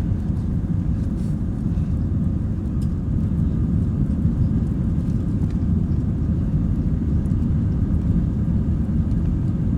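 Jet airliner cabin noise: a steady low rumble of the engines and airflow heard from inside the passenger cabin.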